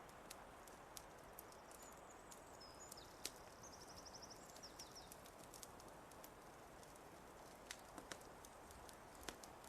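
Quiet fireplace crackle: scattered sharp pops and snaps over a soft steady hiss. A small bird sings high, thin notes a couple of seconds in, ending in a quick trill of repeated notes.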